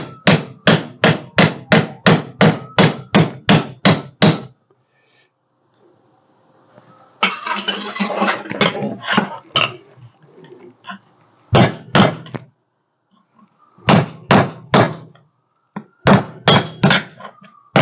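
Hammer tapping a small sheet-steel repair panel on an anvil to flatten a bent edge. It opens with a quick even run of about a dozen strikes, roughly three a second, then a pause, a few seconds of denser, lighter clatter, and further short bursts of strikes.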